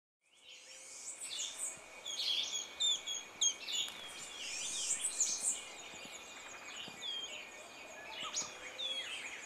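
Several birds chirping and calling, short quick chirps and curving whistles overlapping one another, over a steady high tone. The sound fades in at the start.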